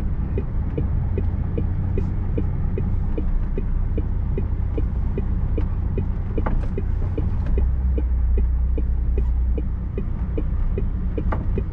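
HGV lorry's diesel engine running, heard from inside the cab, with a steady low drone that deepens and grows louder about halfway through. A regular ticking, about two and a half a second, runs over it.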